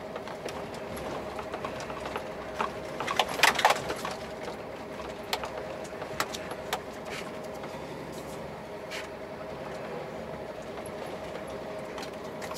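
Scania truck's diesel engine running steadily under load, heard from inside the cab, as the empty truck works up an icy, slippery grade with its rear end sliding. Scattered clicks and a louder burst of rattling come about three seconds in.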